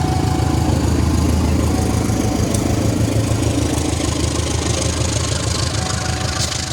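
Diesel locomotive engine of a passenger train running with a steady low rumble, easing off slightly near the end.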